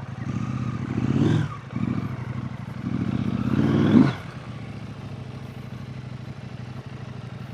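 Husqvarna Norden 901's parallel-twin engine running at low speed, rising in revs twice under throttle, then settling to a steady idle from about four seconds in.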